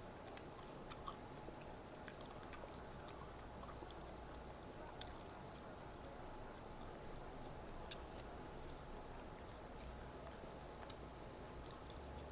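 A person chewing food at close range, with scattered faint short clicks over a low steady hum.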